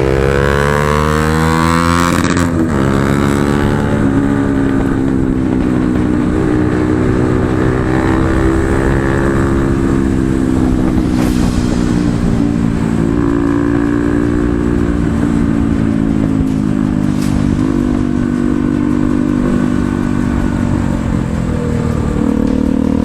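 Single-cylinder Bajaj Pulsar NS motorcycle with an aftermarket exhaust running under way: the revs climb over the first two seconds, break briefly at a gear change, then hold fairly steady with gentle rises and falls.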